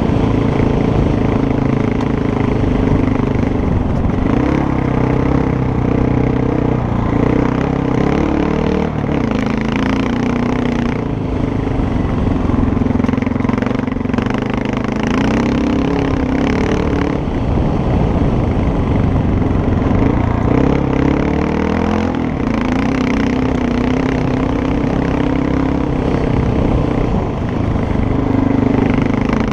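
Motorcycle engine running under way, its pitch rising and falling again and again as the throttle opens and closes.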